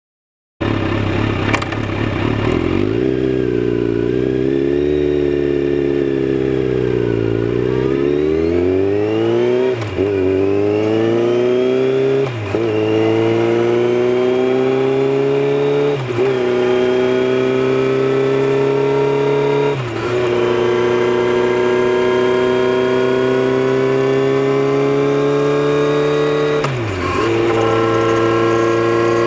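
Kawasaki Z900RS inline-four through a Holeshot Lextek header, heard from a mic under the seat. It runs at low revs with small throttle changes for several seconds, then accelerates up through the gears: the pitch climbs in each gear and drops sharply at five upshifts, each gear lasting longer than the last.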